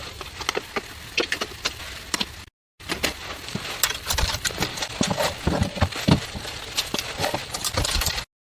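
A busy run of sharp clicks, knocks and crunching thumps, heavier and denser in the second half. The sound cuts out to silence briefly about two and a half seconds in and again near the end.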